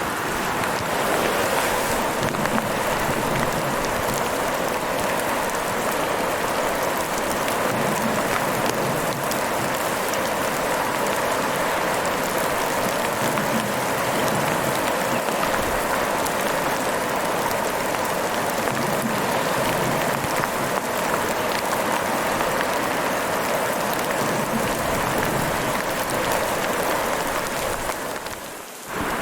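Heavy rain falling, a steady dense hiss with fine pattering drops. It dips briefly just before the end, then comes back at full level.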